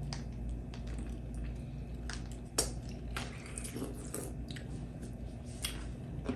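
Biting into and chewing a large spicy pickle: wet, squishy crunching in scattered bites, the sharpest about two and a half seconds in.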